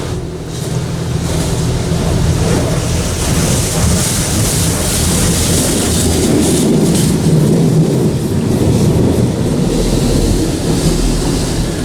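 Automatic car wash running, heard from inside the car's cabin: a steady loud rush of water spraying over the body and windows, with a low machine hum underneath.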